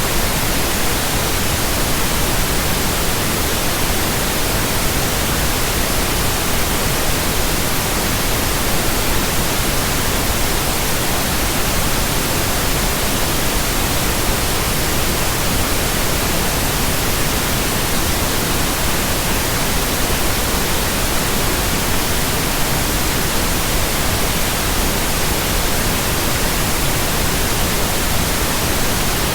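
Steady pink noise: an even, unchanging hiss across the whole range, generated for relaxation and sleep.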